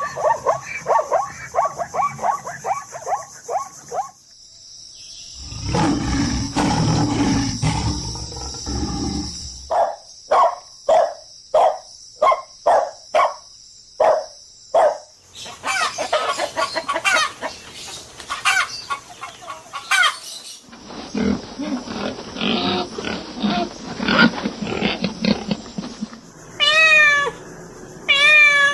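A succession of different animal calls, each lasting a few seconds: rapid repeated calls, then a low rough stretch, then a regular run of about two short calls a second, then noisier mixed calls. The last couple of seconds hold a cat meowing.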